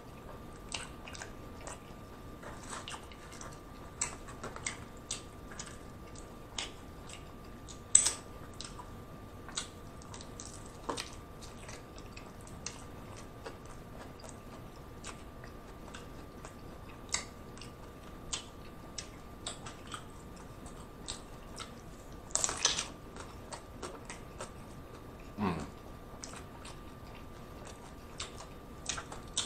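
A person chewing a crunchy hard-shell taco, with sharp crunches of the crisp corn shell scattered throughout. The loudest crunch comes about eight seconds in, and a quick run of crunches follows around twenty-two seconds.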